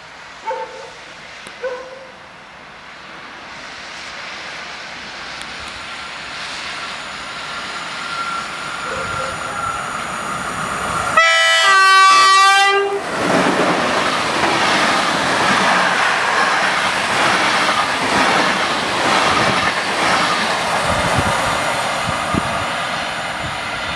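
PKP Intercity 'Sawa' express hauled by an EP09 electric locomotive, approaching with a steadily rising rumble and then passing at speed. About eleven seconds in, the locomotive's horn gives one loud blast of about two seconds. After that comes the rush and rattle of the coaches going by.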